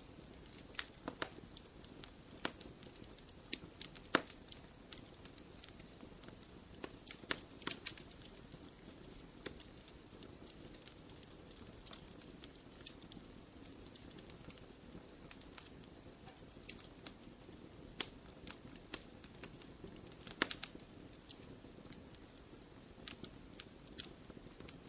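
Wood fire burning in a fireplace: irregular sharp crackles and pops over a soft, steady hiss. The pops come unevenly, with a few louder ones about four seconds in, around eight seconds, and near twenty seconds.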